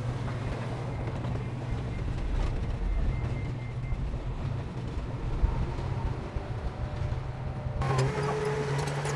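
Heavy diesel earthmoving machinery running with a steady low engine hum. About eight seconds in, the sound cuts abruptly to a stronger engine note with sharp metallic clicks and rattles.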